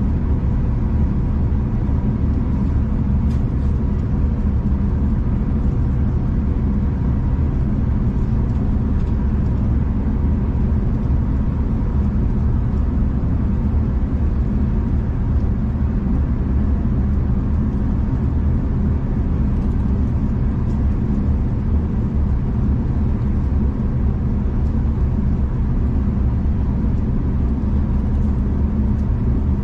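Steady low rumble of a V/Line passenger train running along the line, heard from inside the carriage, with a faint steady hum over it.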